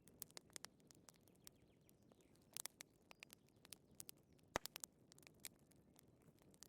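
Wood fire crackling faintly: irregular small pops and snaps over a low hiss, with one sharper pop about four and a half seconds in.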